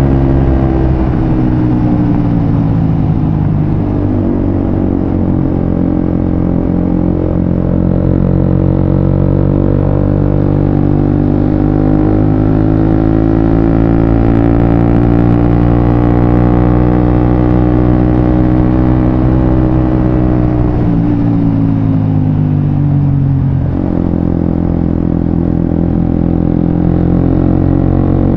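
Suzuki GSX-S150's single-cylinder engine running through a Quinze Big Volume aftermarket exhaust while riding. The engine pitch drops a couple of seconds in, then climbs slowly for a long stretch and sinks again. It jumps back up abruptly near the end and then holds steady.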